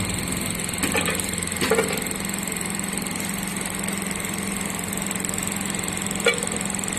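Five-head bobbin winding machine running steadily, with a constant hum and a high whine. A few short clicks and knocks come about a second in, again near two seconds, and once near the end.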